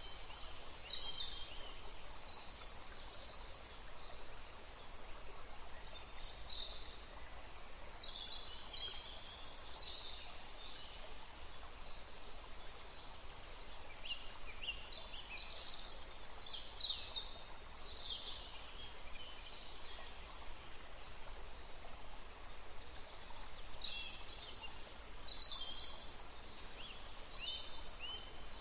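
Birds chirping in scattered bouts of short, high, gliding notes, over a steady background noise.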